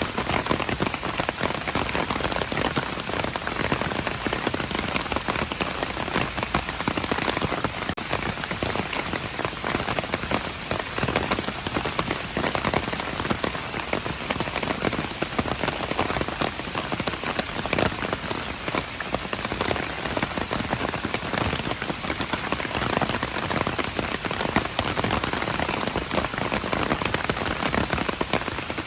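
Steady rain falling and pattering on hard surfaces, a dense hiss of countless raindrops with no break.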